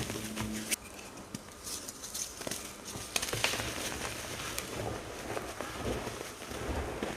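Pasted (reformed) chalk blocks and chunks being crushed and crumbled, giving irregular crisp crunches and crackles. A low steady hum stops under a second in.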